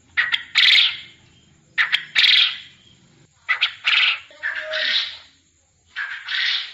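A bird calling over and over in harsh, rasping phrases, four of them, each starting with one or two quick sharp notes and ending in a longer scratchy note.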